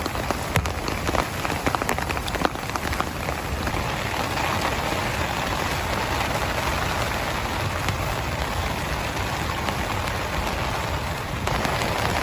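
Heavy rain falling steadily, with sharp individual drop hits in the first few seconds and the rain growing a little louder near the end.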